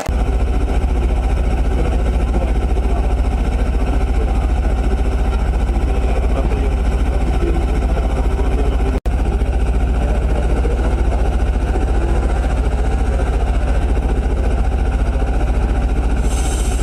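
An internal combustion engine running steadily, with a heavy low rumble made of rapid, even firing pulses. The sound cuts out for an instant about halfway through.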